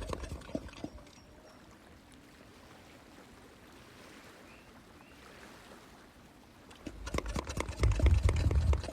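White-lipped peccaries: a burst of sharp clicks over a low rumble, fading out within the first second, then a quiet stretch, then a second burst of clicks and low rumbling from about seven seconds in.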